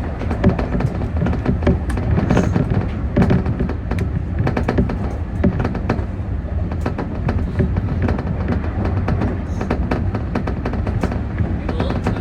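Keio Inokashira Line electric commuter train running along the track: a steady rumble with many sharp clicks from the wheels on the rails.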